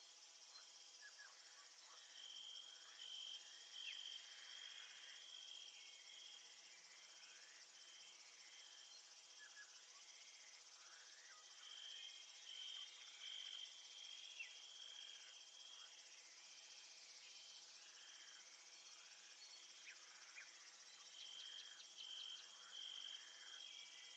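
Faint crickets chirping in a steady insect chorus. One cricket trills in three bouts of two to three seconds each.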